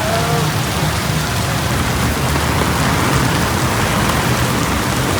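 Heavy rain pouring steadily onto street surfaces, a dense even hiss, with a low steady hum underneath.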